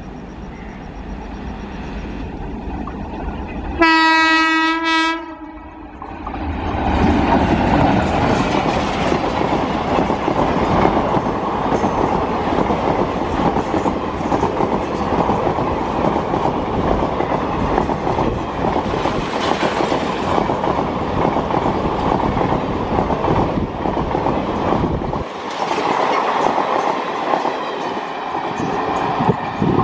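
WAP-4 electric locomotive sounding its horn once, a single steady note lasting about a second and a half. Then the passenger coaches of the express pass close by at speed, with a steady loud rumble and the clickety-clack of wheels over rail joints.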